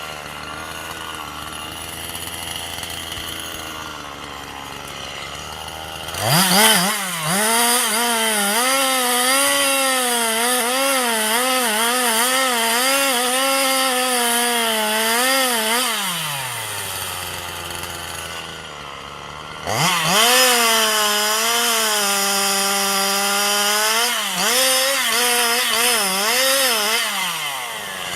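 Two-stroke chainsaw idling, then revved to full throttle about six seconds in and held there for about ten seconds with its pitch wavering as it cuts into the wood, dropping back to idle, then revved and cutting again from about twenty seconds in until it eases off near the end.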